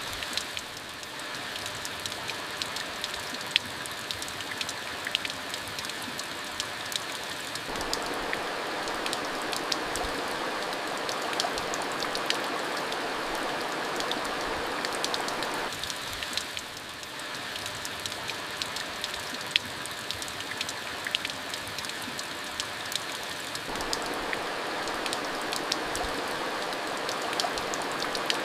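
Steady rainfall: an even hiss of rain scattered with many small sharp ticks of individual drops landing.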